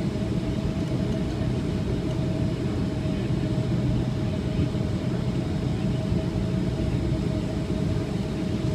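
Steady low cabin rumble of a Boeing 757-200 with its Rolls-Royce RB211-535E4B engines running, heard from a passenger seat, with a thin steady hum above the rumble and no change in power.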